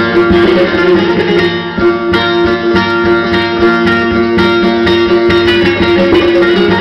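Bağlama (Turkish long-necked saz) playing: a quick run of plucked notes over a steady droning note.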